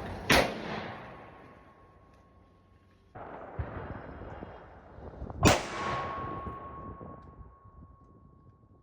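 Two unsuppressed rifle shots from a .350 Legend rifle, about five seconds apart. Each crack rolls off in a long echo, and a faint steady ring hangs on after it.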